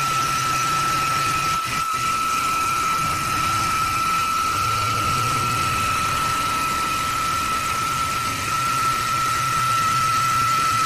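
CNC wood lathe running, with a steady high-pitched whine over a low hum and an even rushing noise.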